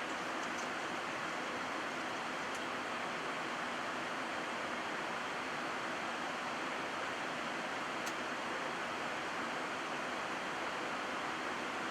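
Steady rushing flight-deck noise of a Boeing 737-700 in flight, a hiss of airflow and cabin air, with a faint click about eight seconds in.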